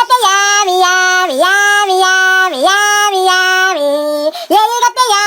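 A high voice singing a string of long held notes, each dipping briefly in pitch before the next, with a short break about four and a half seconds in before a last note.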